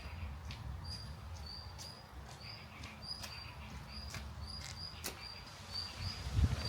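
A small animal chirping in a steady series of short high notes, about two a second, over scattered sharp crackles of a wood fire burning in the rain. A low rumble comes in near the end.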